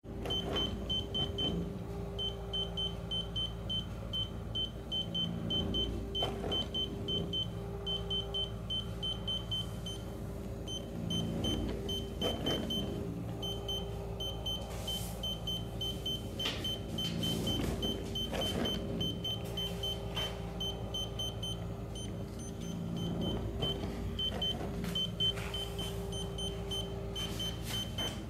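Blomberg Smartouch dishwasher beeping over and over: short high beeps, several a second, in runs with brief gaps, over the steady hum of the running machine. The non-stop beeping is the sign of a malfunctioning dishwasher.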